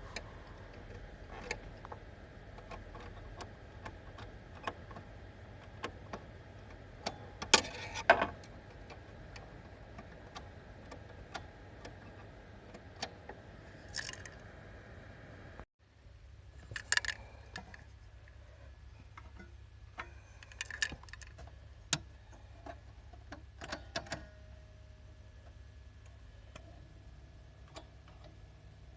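Small metal tools and parts clicking and clinking as a vintage recorder's mechanism is handled during repair, in scattered taps with a louder cluster of clinks about a third of the way in and several more in the second half, over a faint steady hum.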